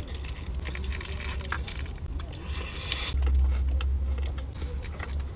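A person biting into a chicken shawarma wrap and chewing, with small wet squishes and crackles, busiest about two and a half seconds in.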